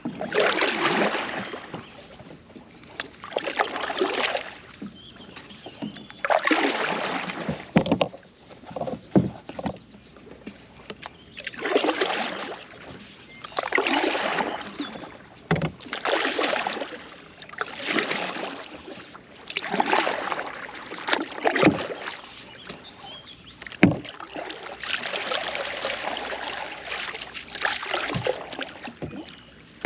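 Kayak paddle strokes: the blade swishing and splashing through the water about once every two seconds, alternating in a steady rhythm, with a few sharp knocks along the way.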